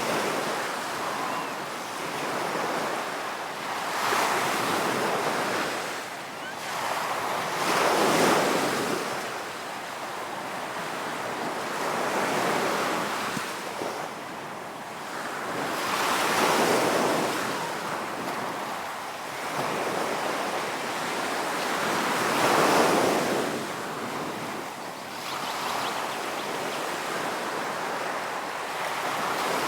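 Ocean waves breaking and washing up the shore, each surge of surf swelling and fading every few seconds.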